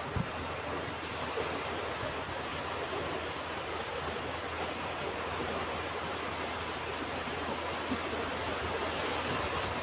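Ocean surf washing on a beach: a steady, even rush of breaking waves. There is a brief low thump just after the start.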